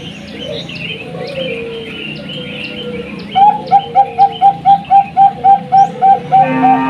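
Zebra dove (perkutut) song lure: small birds chirp for the first three seconds, then a fast, even run of short clear cooing notes begins, about four a second. Near the end a louder buzzy call joins in.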